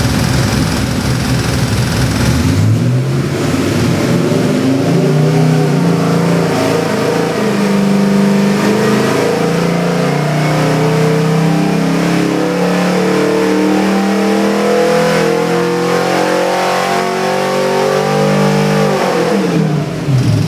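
Custom 427 cubic-inch Chevy small-block stroker V8 making a dyno pull. After about two and a half seconds of low running, it comes on load and its revs climb steadily for about sixteen seconds. Near the end the throttle closes and the revs fall away quickly.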